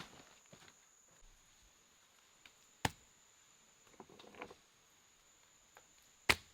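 Two sharp knocks about three and a half seconds apart, with light rustling between them, over a steady high-pitched whine.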